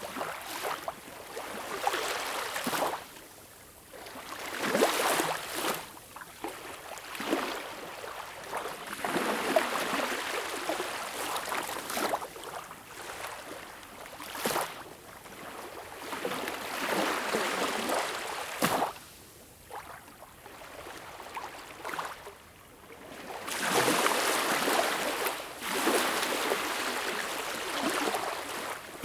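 Sea waves washing in and drawing back, the rush of water swelling and fading every few seconds, with a few short sharp splashes.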